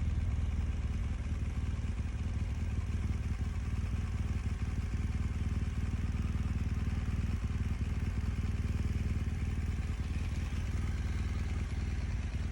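BMW R1200 GS Adventure motorcycle's boxer-twin engine running steadily, with a rush of road and wind noise over it.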